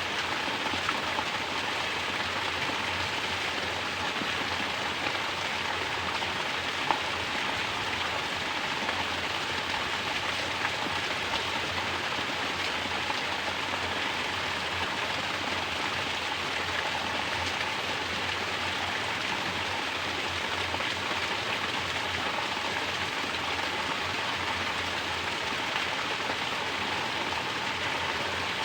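Mountain water pouring from a natural shower and splashing, a steady even rush of falling water.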